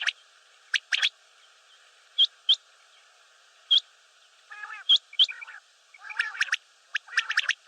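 Common quail calling: scattered short, sharp notes, several flicking upward at the end, then from about halfway a quicker run of rougher burbling notes mixed with chirps.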